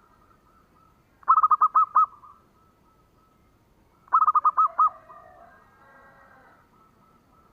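Zebra dove (perkutut) singing: two bursts of five or six quick staccato coos, about a second in and again about four seconds in, followed by fainter, softer calling.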